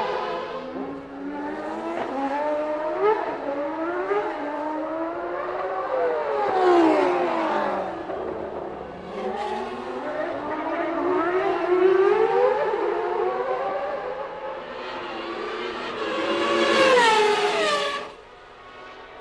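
1989 Formula One cars' naturally aspirated 3.5-litre racing engines revving high, their pitch rising and falling through upshifts and downshifts as several cars pass. Near the end one passes close, loud and high, with its pitch falling away, then the sound drops off sharply.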